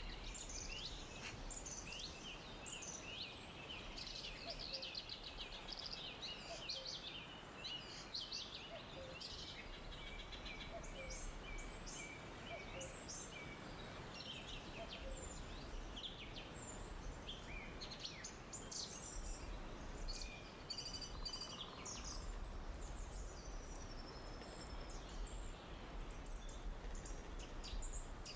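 Forest ambience: many small birds chirping and calling, short quick notes overlapping throughout, over a steady low hiss.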